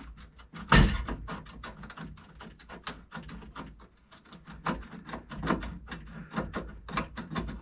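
Metal-on-metal knocks and taps as a piece of thin sheet steel is worked into place to close a gap before welding: one loud knock about a second in, then a quick, irregular run of small clicks and taps.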